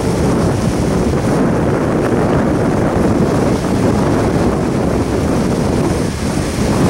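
Intermodal freight train's well cars rolling steadily across a bridge, a continuous low rumble of wheels on rail, with wind buffeting the microphone.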